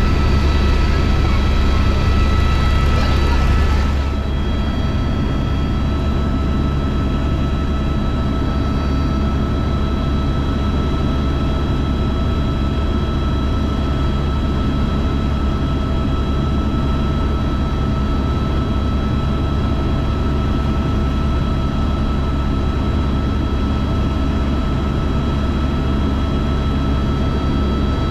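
Helicopter running steadily: a constant low drone with several steady whining tones. About four seconds in, it gets slightly quieter and some of the higher hiss falls away.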